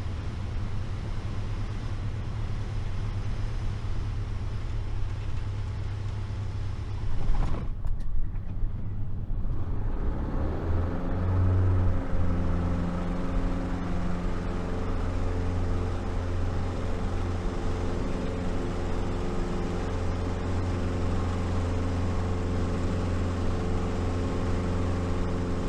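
Light piston aircraft heard from inside the cabin during a touch-and-go: a steady low engine drone, a few loud knocks about seven to nine seconds in as the wheels meet the runway, then the engine is opened up and runs steady at full power for the takeoff.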